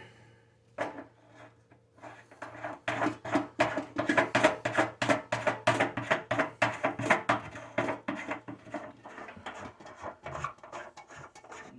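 Hand work on plumbing fittings: a long, quick, even run of sharp clicks or knocks, about three to four a second, starting a couple of seconds in.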